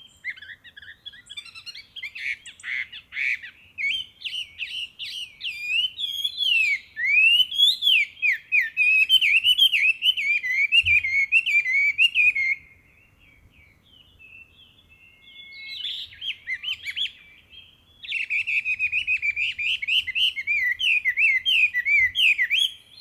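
Chinese hwamei singing a loud, varied song of rapid whistled phrases that glide up and down. It breaks off about halfway through, leaving only a few faint notes for several seconds, then starts again.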